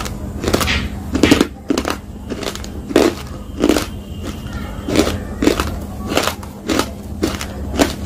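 Crunchy food being chewed with the lips closed, heard close to the mouth. There are about fourteen sharp crunches, roughly one every half second.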